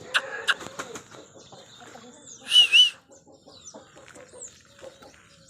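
Aseel chickens clucking softly, with a couple of sharp clicks right at the start. About two and a half seconds in come two loud, high-pitched chirps in quick succession, and a few faint high chirps follow later.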